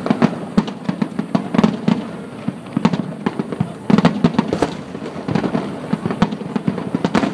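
Fireworks display: shells bursting in rapid, irregular succession, a dense run of bangs and crackles, with a loud cluster about four seconds in.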